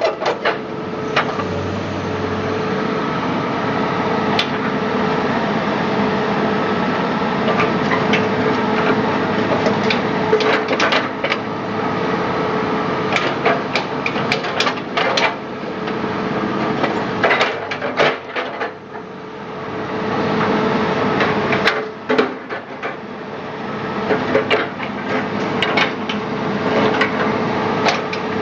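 Irregular metal knocks and hammer blows from work on an excavator track, over a steady hum.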